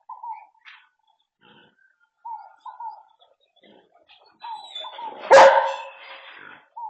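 A dog barking and yipping: short falling yelps, mostly in pairs, with one loud bark about five and a half seconds in.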